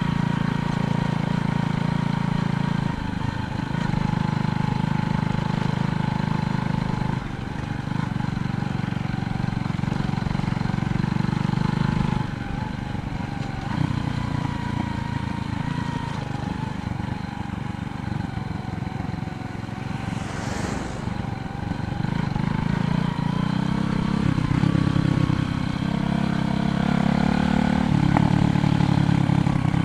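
Wind rushing over the microphone and tyre noise from a bicycle riding along a road, the rumble rising and falling every few seconds.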